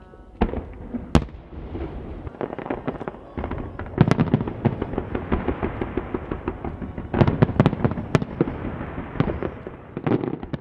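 Aerial firework shells going off: a couple of single booms in the first second or so, then a rapid-fire barrage of overlapping booms and crackles, heaviest around four and again around seven to eight seconds in.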